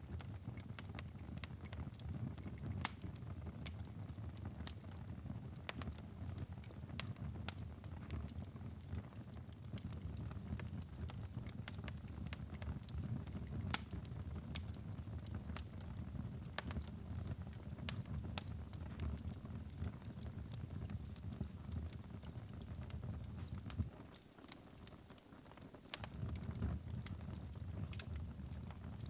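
Wood fire burning in a fireplace: a steady low rumble of flames with sharp, irregular crackles and pops throughout. The low rumble drops away for a couple of seconds near the end while the crackling goes on.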